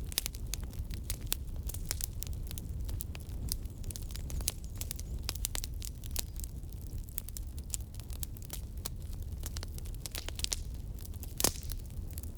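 Firewood burning and crackling: a steady run of sharp pops and snaps over a low rumble, with one louder pop near the end.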